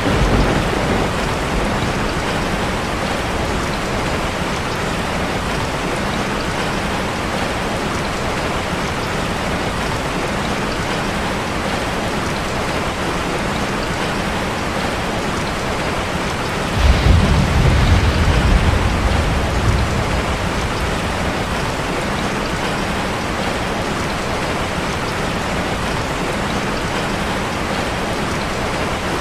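Steady rain drumming on a metal roof. About 17 seconds in, a low rumble of thunder swells for a few seconds and fades.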